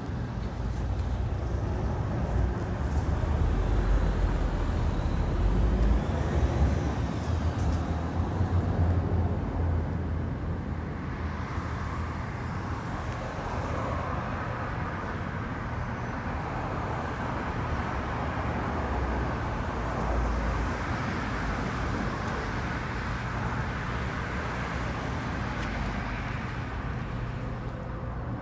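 Harley-Davidson Street Bob 114's Milwaukee-Eight 114 V-twin engine running, louder for a few seconds in the first third, then steady.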